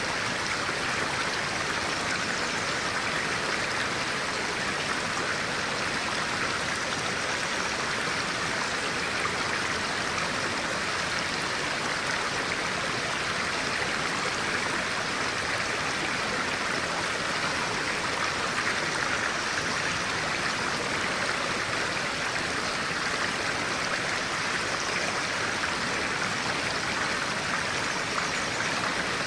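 A clear stream flowing over rocks, a steady, even rush of water.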